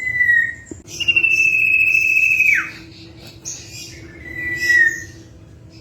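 Common iora whistling: three clear, drawn-out whistles, the middle one held about a second and a half before swooping sharply down in pitch, the last one shorter and slightly falling.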